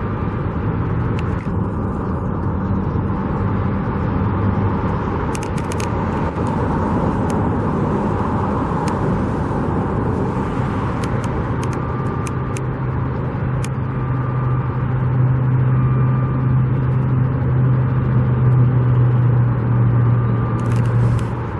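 Motor vehicle engines running amid steady traffic noise. A deeper engine drone comes in about halfway through and grows louder toward the end.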